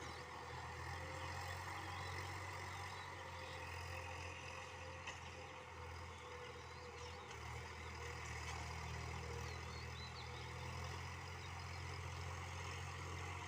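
Sonalika DI-50 RX tractor's diesel engine running steadily, with a few short high chirps over it.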